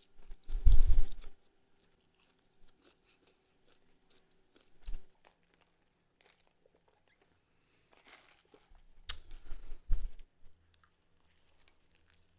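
Close-miked chewing and crunching of breakfast food, coming in bursts: a loud one about half a second in, a short one near five seconds, and a longer run from about eight to ten and a half seconds.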